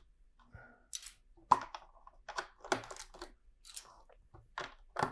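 LEGO plastic bricks being handled: a string of irregular light clicks and rattles.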